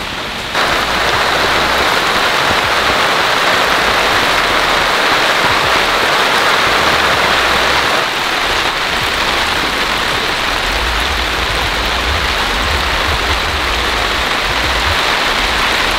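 Heavy rain pouring down steadily, a dense even hiss that comes in abruptly about half a second in.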